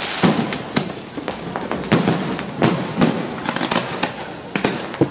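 Fireworks and firecrackers going off together: a dense, continuous crackle punctuated by sharp bangs at irregular intervals, several of them loud.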